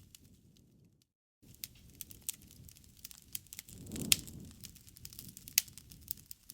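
Campfire crackling: burning wood snapping and popping in irregular sharp clicks over a low flame rumble. The rumble swells about four seconds in, and two loud pops come about a second and a half apart. The sound cuts out completely for a moment about a second in.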